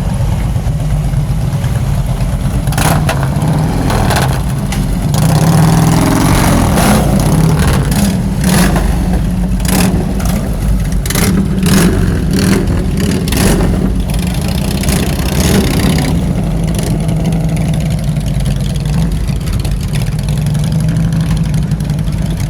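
Car engine running with a steady low rumble, and a run of sharp clicks or knocks in the first half.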